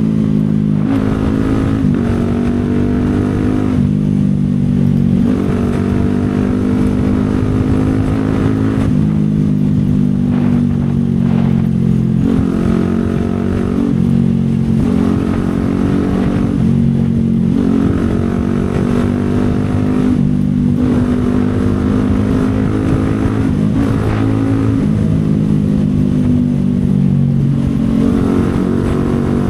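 CFMoto 250SR Lite's single-cylinder engine riding through traffic, its pitch climbing and then dropping back at each gear change or roll-off, over and over.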